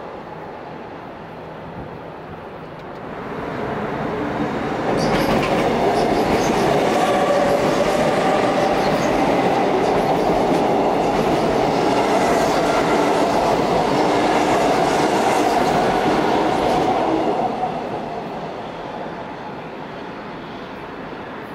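Seoul Subway Line 2 electric train passing close by on a railway bridge. The sound builds about four seconds in, stays loud for some twelve seconds as the cars go by, and fades after about seventeen seconds as the train moves away.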